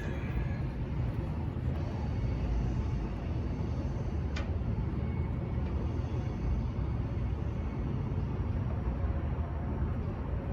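Steady low rumbling outdoor background noise, with a single sharp click about four seconds in.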